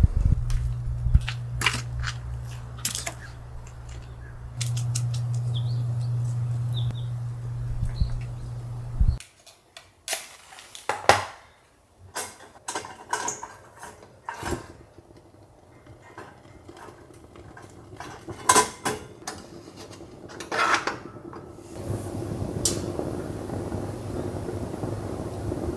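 Kitchenware being handled: scattered clinks and knocks of dishes and utensils. A low steady hum underlies the first nine seconds and stops suddenly.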